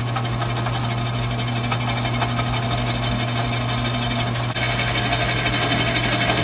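Electric drill motor running steadily as it bores into steel, a constant hum that turns a little brighter and rougher about four and a half seconds in.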